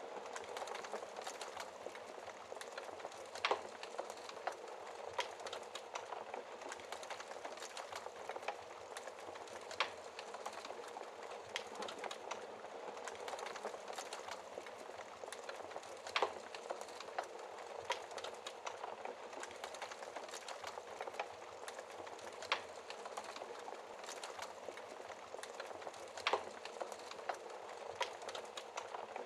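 Wood fire crackling in a fireplace: a steady soft hiss of burning with irregular small snaps and a few louder pops.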